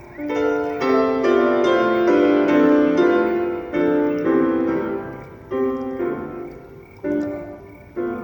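Live ambient music on a piano-like struck-note instrument: a quick run of ringing notes with long sustain, thinning after about three seconds to separate chords struck roughly once a second.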